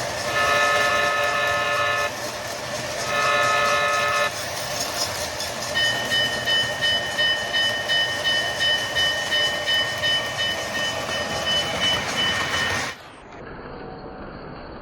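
A model train locomotive's electronic sound system sounds two long horn blasts, the signal for moving ahead, then rings its bell steadily for several seconds. Near the end the bell stops and the sound drops suddenly to a quieter steady running noise.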